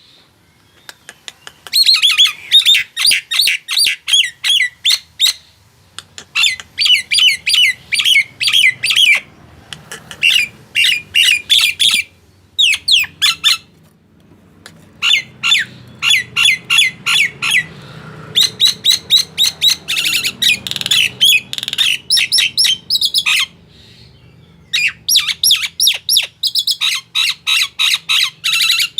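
Nias hill myna calling loudly in bursts: rapid series of sharp, repeated squawking notes lasting a few seconds each, with short pauses between.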